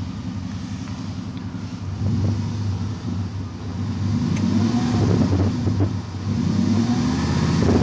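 Engine of an LPG-converted Dodge Ram pickup running; its note gets louder about two seconds in, and the revs rise and fall a little.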